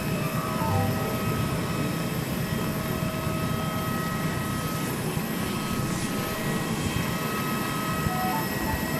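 Steady cabin noise of a Boeing 737-800 on the ground after landing: a low rumble with several steady, high whining tones.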